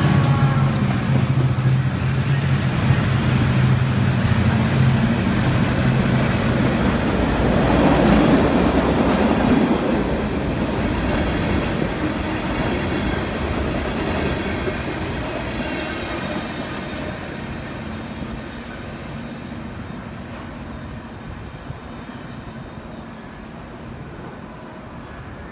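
EMD MP15AC diesel switcher locomotives pass close by with a steady engine drone that ends about six seconds in. A string of open-top freight cars follows, rolling past on the rails, and the sound fades away gradually as the train recedes.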